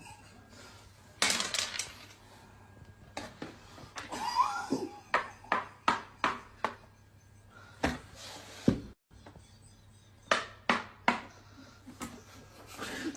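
A string of sharp knocks and clatters at irregular intervals, with a faint low steady hum underneath.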